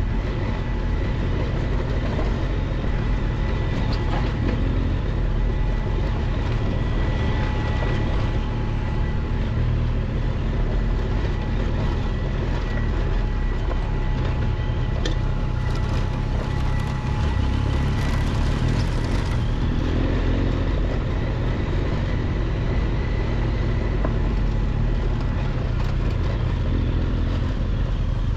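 Adventure motorcycle (Triumph Tiger 1200 XCX) engine running steadily while riding a rough dirt road, under a heavy low rumble, with a faint steady whine on top.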